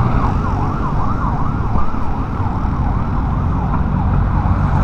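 A siren yelping, its pitch sweeping up and down about three times a second and fading away near the end. Under it is a steady low rumble of wind on the microphone from a moving motorcycle.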